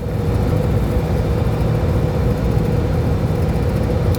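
Carrier AquaSnap air-cooled chiller running on one compressor, the stage-two compressor not pulling in. It makes a steady mechanical hum with a constant mid-pitched tone over it.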